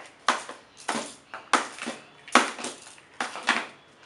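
A baby banging a hard toy, about eight sharp knocks in an irregular rhythm, some in quick pairs.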